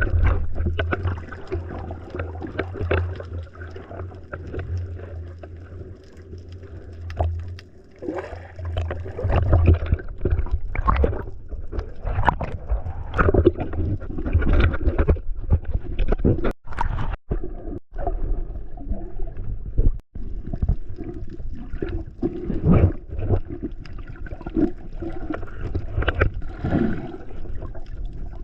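Sea water sloshing, gurgling and splashing close against the microphone, with a low rumble for about the first third. The sound cuts out briefly a few times a little past the middle.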